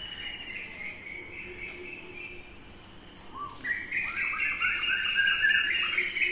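Wild bird singing: a high, fast trill, faint at first and much louder from about four seconds in.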